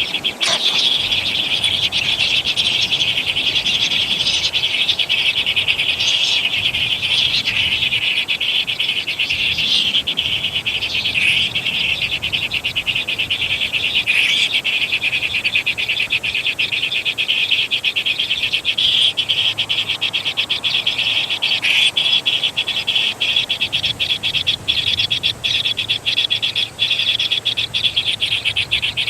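Animal chorus: a continuous high-pitched rapid pulsing, with a few brief louder calls standing out now and then.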